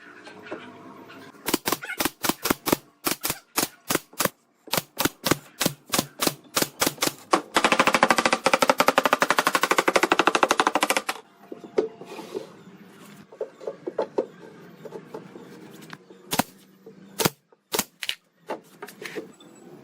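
Sharp repeated impacts from woodworking: a run of separate strikes, two or three a second, then a fast rattling burst of about three seconds, then a few scattered strikes.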